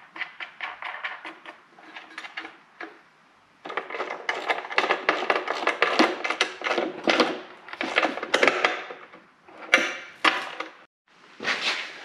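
Rapid clattering and knocking of metal hardware and tools being handled, with short pauses about three seconds in and near the end.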